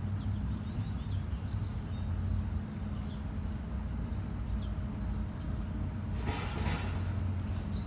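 A steady low rumble, with a few faint high chirps about two to three seconds in and a brief breathy rustle near the end.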